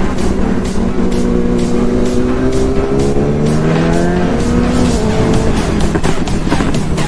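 Background music with a steady beat over a sportbike engine, whose pitch climbs for a second or so and drops again partway through.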